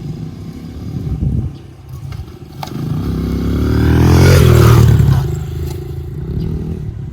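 Small dirt bike engine running on a track. It grows louder as the bike comes close about four seconds in, drops in pitch as it passes, then fades away.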